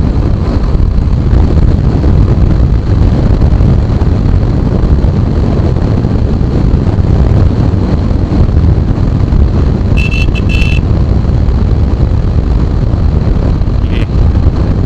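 A Royal Enfield motorcycle riding along a road, with wind rushing over the microphone over the engine. About ten seconds in, a horn gives a few quick beeps.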